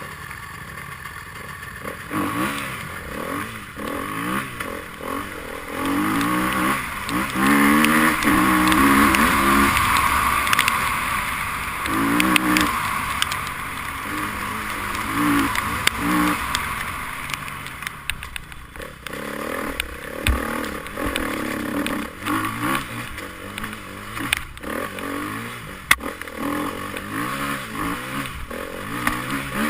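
Enduro motorcycle engines revving up and down as bikes ride by, the pitch rising and falling with each throttle change, the loudest pass about a quarter of the way in.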